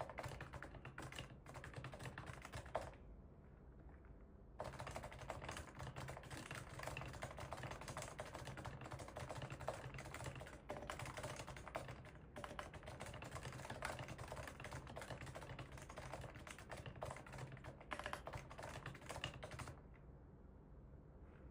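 Fast, continuous typing on a Realforce GX1 keyboard with Topre electrostatic capacitive switches: a dense run of keystrokes that pauses for about two seconds near the start and stops shortly before the end.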